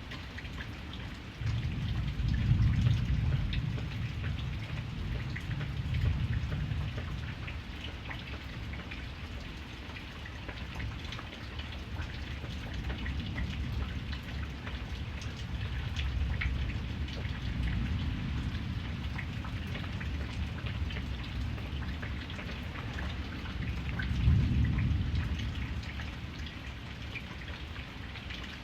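Steady rain pattering, with low rolling rumbles of thunder that start about a second and a half in, swell and fade several times, and peak again near the end.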